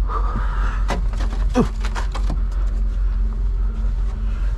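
Knocks and scrapes of snow being cleared off the top of a semi truck, clustered in the first half, over a steady low rumble.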